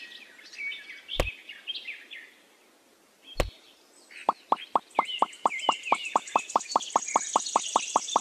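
Small pebbles clicking as they are set down one at a time along the rim of a plastic pond mold: three separate clicks in the first few seconds, then from about four seconds in a rapid, even run of about six clicks a second. Birds chirp throughout.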